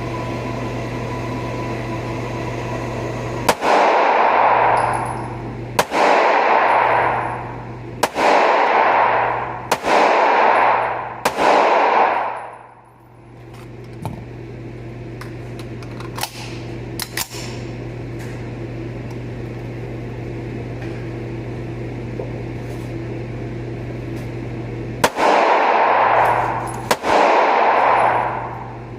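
Gunshots: five about two seconds apart, each with a long ringing tail, then a pause and two more near the end. A steady low hum runs underneath.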